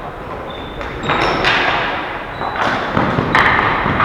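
Ball hockey play echoing in a large hall: several separate knocks and thuds of sticks and the ball, a few with short high squeaks.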